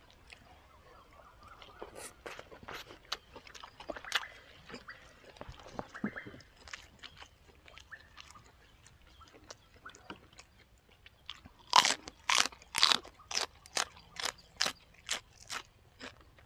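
Close-up chewing of crunchy raw vegetables: soft scattered chewing clicks at first, then loud, rapid crunching bites, about three a second, in the last few seconds.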